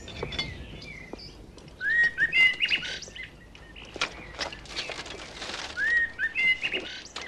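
A songbird singing outdoors: two similar whistled song phrases, one about two seconds in and one about six seconds in, each opening with a rising note. A few sharp clicks sound between the phrases.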